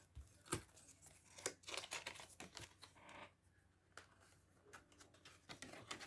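Faint rustling and scattered soft clicks of paper envelopes being handled and slid into place.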